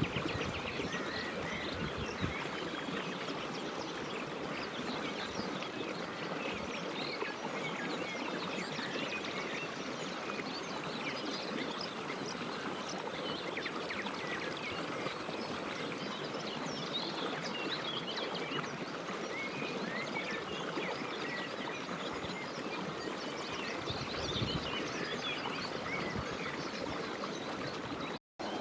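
Many birds calling and singing at once, a dense, steady chorus of overlapping chirps and trills. The sound cuts out briefly near the end.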